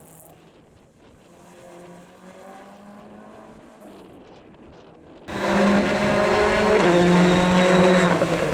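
Rally car engine running at revs, faint and distant. About five seconds in, the sound cuts abruptly to a much louder rally car engine close by, holding a fairly steady high-revving note.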